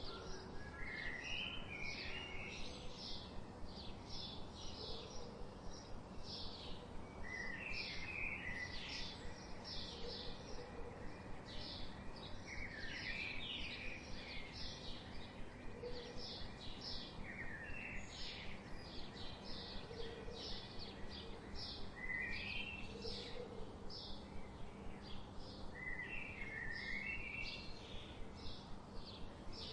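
Birds chirping: a steady run of short high chirps, about three a second, with a lower warbling phrase every few seconds, over a soft steady background hiss.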